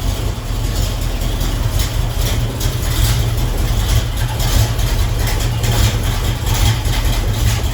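Car engine running steadily with a heavy low rumble, likely as the car is driven in.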